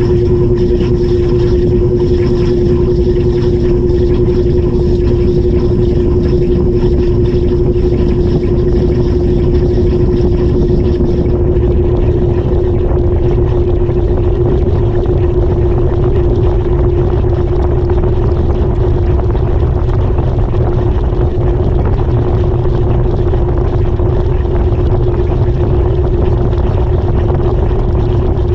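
2018 GE GTW220ACKWW top-loading washing machine running, heard from a camera fixed to the agitator inside the tub: a loud, steady rush with a constant hum. A faint high whistle drops out about eleven seconds in.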